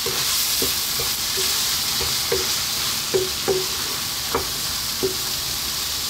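Lamb, onion and berbere frying in a wok with a steady sizzle while a wooden spatula stirs and scrapes through it, giving short scraping knocks about every half second: the berbere being fried down with the meat for a red wot.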